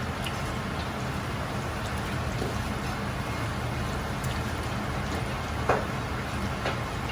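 Chinese restaurant kitchen cooking: a steady low roar from the wok burner and extractor under a sizzling like rain, as the chicken fries. Two light knocks of utensils land near the end.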